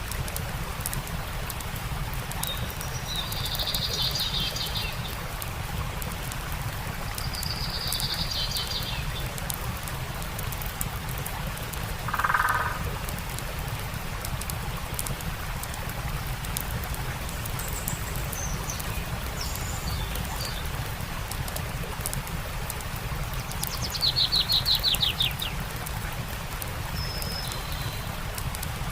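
Campfire crackling over the steady rush of a stream, with birds calling now and then: a louder, lower call near the middle and a fast trill near the end.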